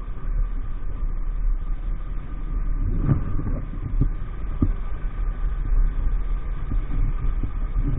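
EAYS Pro 50cc moped engine running steadily under way, under a heavy low rumble. A few short knocks come between about three and four and a half seconds in.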